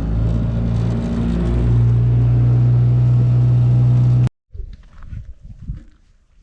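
Fishing boat's outboard motor running under way, its pitch stepping up about one and a half seconds in as it speeds up. It stops abruptly about four seconds in, leaving only faint, scattered outdoor sounds.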